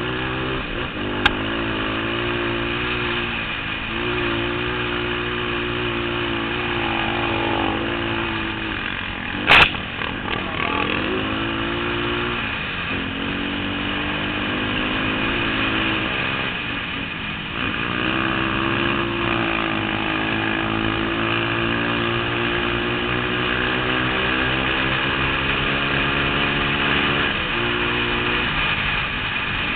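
Trail motorcycle engine running under changing throttle, its pitch rising and falling and stepping down now and then. A single sharp knock about ten seconds in is the loudest moment.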